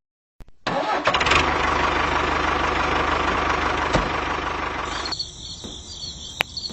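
An engine starts abruptly about half a second in, runs steadily for about four and a half seconds and cuts off. High insect chirring follows.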